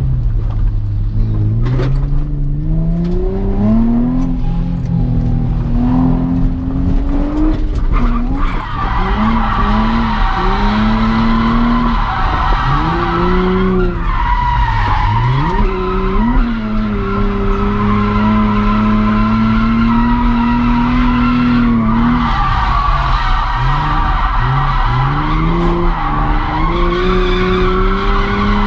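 Drift car's engine revving up and down with throttle blips and pitch swings through a drift run. Tyres squeal loudly and continuously from about eight seconds in as the car slides.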